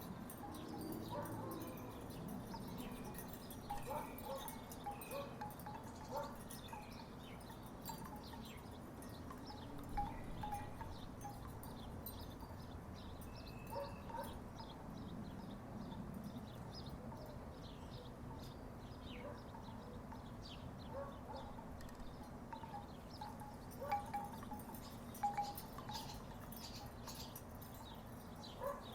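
Wooden tiki wind chimes knocking together irregularly, making short hollow clonks scattered throughout, with a few louder knocks near the end. A steady low background hum runs underneath.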